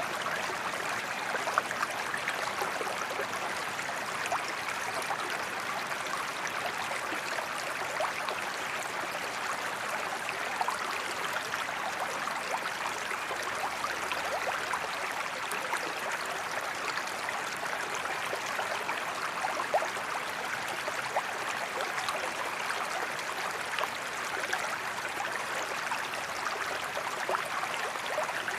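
Steady rushing and splashing of flowing water, with small droplet splashes scattered through it.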